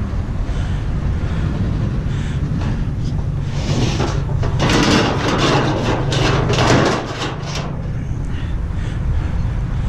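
Vehicle running with a steady low drone. From about four and a half seconds in there is a louder rattling, clattering noise lasting about two seconds, then it cuts off.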